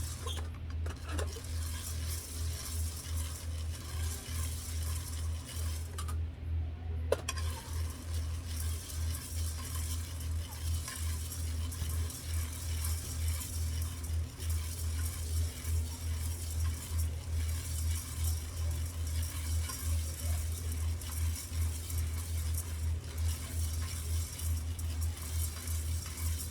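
Coffee beans rattling and tumbling in a roaster while they roast, over a low hum that pulses rhythmically. A single sharp click about seven seconds in.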